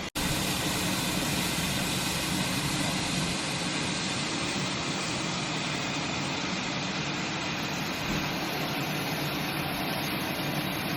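Steady rumble and hiss of a train, with no change in pitch or level.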